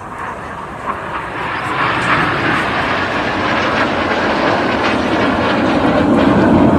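Jet noise from BAE Hawk T1 trainers flying a low formation pass, growing steadily louder as they approach.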